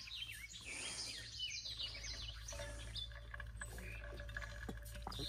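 Birds chirping: many short calls that rise and fall, thickest in the first half, over a steady low rumble.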